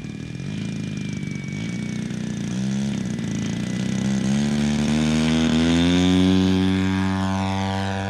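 60cc single-cylinder two-stroke gas engine of a giant-scale RC warbird, turning a three-blade propeller and running up at full power on the takeoff run. Its pitch rises over the first few seconds, then the sound grows louder, peaks about six seconds in and eases off as the plane climbs out.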